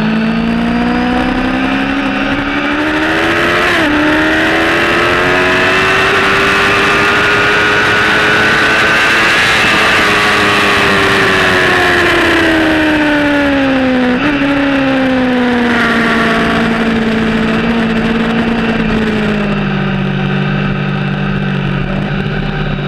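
Motorcycle engine accelerating hard, its pitch climbing with a brief drop at an upshift about four seconds in. It holds high, then falls as the bike slows, with a short jump in pitch at a downshift about fourteen seconds in, and settles to a steady lower note near the end.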